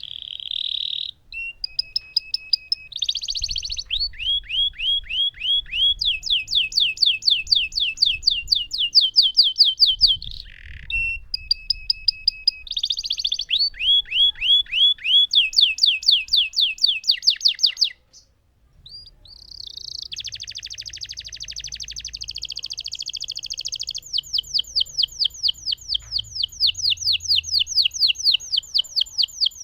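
Lemon domestic canary singing long rolling phrases: high, rapid trills of repeated downward-sweeping notes, one after another, with a short pause a little past the middle.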